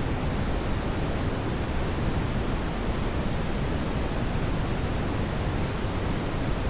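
Brown noise: a steady, unchanging hiss weighted toward the low end, with no other sounds.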